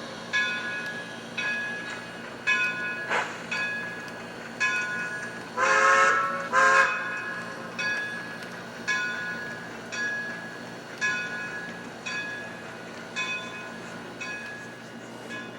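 HO-scale model steam locomotive's sound system: the locomotive bell rings steadily, about two strokes a second, and about six seconds in the whistle gives two short blasts, the signal that the train is about to move forward. A low steady hum runs underneath.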